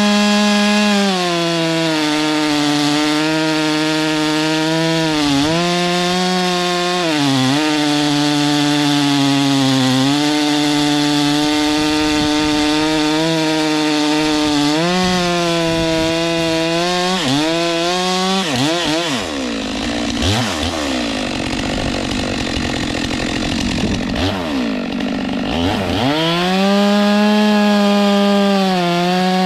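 Stihl MS 462 two-stroke chainsaw running at high speed through a log test cut on a freshly resharpened, rock-damaged chain. Its pitch dips briefly several times as the chain bites. About two-thirds of the way in, the engine speed swings down and up for several seconds, then settles back to a steady high pitch.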